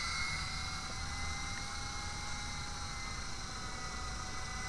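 Silverlit V-150 toy RC helicopter in flight, its small electric motor and rotor giving a steady high whine over a hiss.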